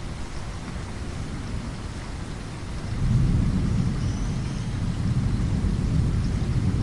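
Steady rain pattering on a window, with a low rumble of thunder that swells about three seconds in and rolls on.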